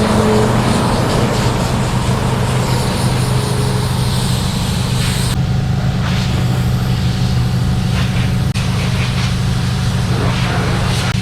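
A motor vehicle engine running steadily, an even low hum, with outdoor noise over it.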